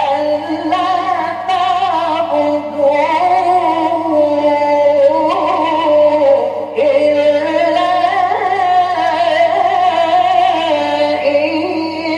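A man's voice reciting the Quran in the drawn-out, melodic mujawwad style. He holds long ornamented notes that waver and glide up and down, with a short break about seven seconds in. A steady low hum from the old recording lies underneath.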